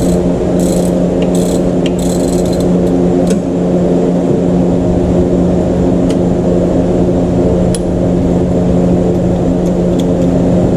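A steady mechanical hum made of several evenly spaced tones, from a machine running throughout. Short runs of metallic clicking from hand tools come in the first three seconds, with a few single ticks later.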